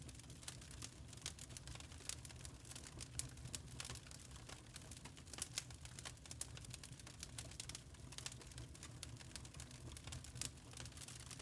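Burning charcoal crackling: a dense, irregular run of small sharp pops and ticks, several a second, over a low steady hum.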